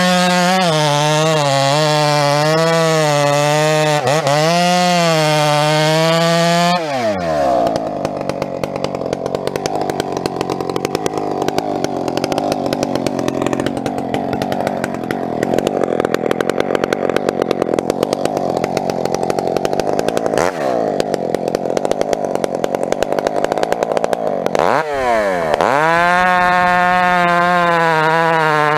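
Two-stroke chainsaw running at high revs with a wavering pitch. About seven seconds in the pitch drops sharply as it goes into a cut through a firewood log, and it cuts steadily under load for nearly twenty seconds. Near the end it revs free again, back at the high wavering note.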